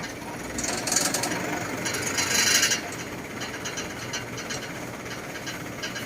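Crane truck's engine running steadily, with two louder bursts of hiss and fast ticking about a second in and again around two to three seconds in.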